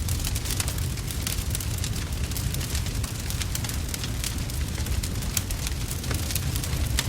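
Wood fire burning in a fireplace: logs crackling with many sharp irregular pops over a steady low rumble of the flames.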